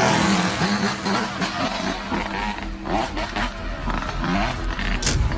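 Enduro motorcycle engine running hard on a rough trail, its revs rising and falling as the rider blips the throttle.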